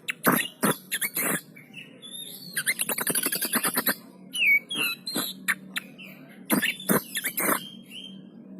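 Oriental magpie-robin (kacer poci) singing vigorously: loud, sharp separate notes, a fast rattling run of repeated notes about three seconds in, then whistled slurs. A steady faint low hum sits under the song.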